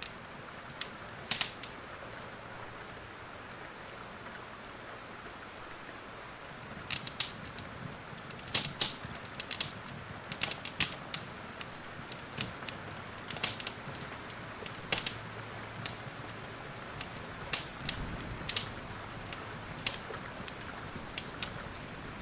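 Steady hiss of rain with a wood fire crackling over it: sharp pops and snaps at irregular intervals, sparse at first and more frequent from about a third of the way in.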